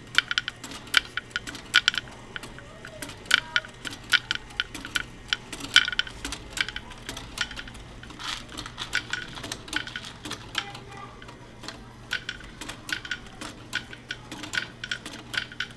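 Plastic Lego bricks being handled and sorted, with many quick, irregular light clicks and clacks over a faint steady hum.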